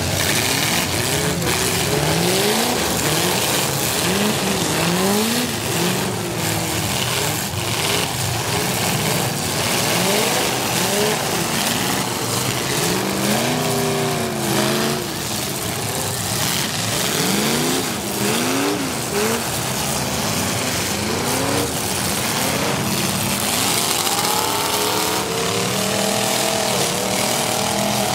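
Several demolition derby cars' V8 engines revving up and down over one another in a loud, continuous din, with occasional knocks.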